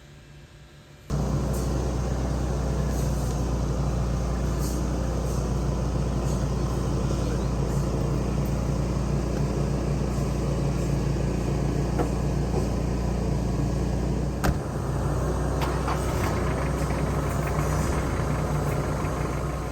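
A vehicle engine running steadily, starting abruptly about a second in after a faint hiss, with a deep, even hum.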